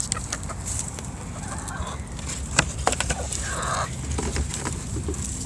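Hens making faint short calls among scattered sharp clicks and knocks.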